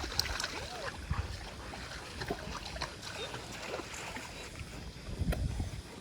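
Pool water lapping and splashing in small irregular bursts as dogs paddle through it, with a couple of heavier low sloshes.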